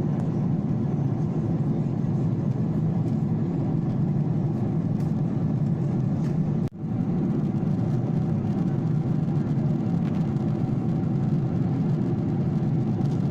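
Steady drone of an airliner's engines and rushing air heard inside the passenger cabin. It cuts out for an instant about halfway through.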